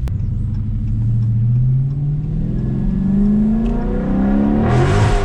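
Muffler-deleted 392 HEMI V8 accelerating hard, its pitch rising steadily for about three seconds, with a loud rush of noise near the end.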